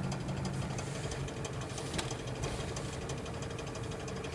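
Knocking and crackling from the rear right wheel of a VAZ-2109 while it rolls along, heard inside the cabin as a run of clicks over road noise. The cause is a screwed-in bolt rubbing on the brake shoe.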